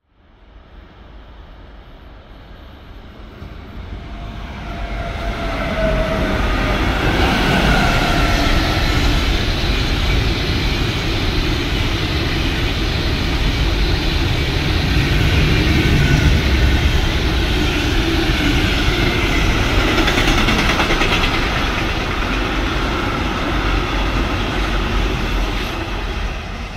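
A train approaches and passes close by on the line: the noise builds over about seven seconds, holds loud and steady for some fifteen seconds, and begins to fade near the end.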